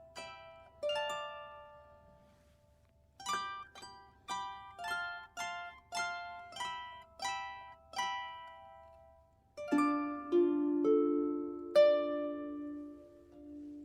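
Solo harp played slowly, single plucked notes ringing out and fading. After a short pause there is a run of notes about two a second, and near the end deeper chords come in beneath.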